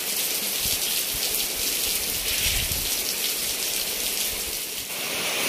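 Steady rain falling, an even hiss. About five seconds in it changes suddenly to a hiss of tofu sizzling in oil in a wok.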